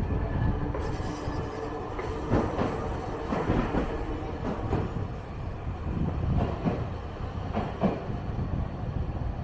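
Hiroshima Electric Railway streetcar running on its rails: a steady rumble with scattered knocks from the wheels, a little louder at first and easing off towards the end.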